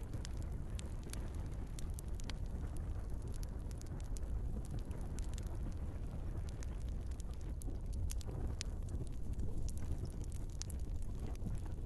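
Log fire burning in a fireplace: frequent, irregular crackles and pops from the burning wood over a steady low rumble of the flames.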